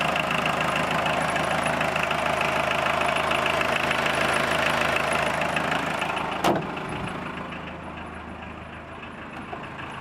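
MK1 VW Rabbit's 1.5-litre diesel engine idling steadily with the air conditioning switched on full. About six and a half seconds in there is a single sharp knock, after which the engine sounds quieter and duller.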